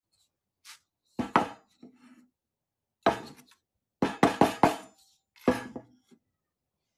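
A series of sharp knocks with short ringing tails: two close together about a second in, one at three seconds, four in quick succession at four seconds, and one more at five and a half.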